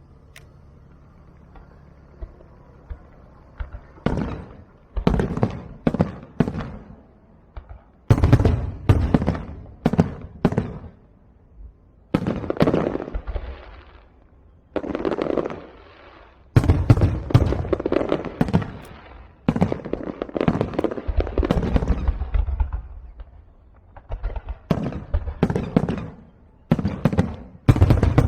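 Fireworks going off: a series of sharp bangs, each trailing off, starting about four seconds in and coming roughly once a second, some in quick clusters.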